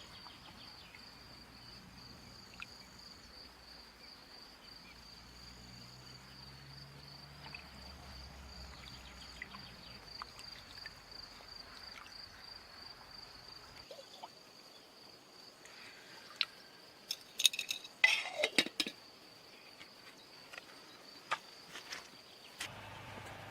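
Insects, crickets or similar, trilling in one steady high, fast-pulsing note that stops near the end. Scattered light clicks and taps sound throughout, with a louder cluster of sharp clinks and knocks from about seventeen to nineteen seconds in.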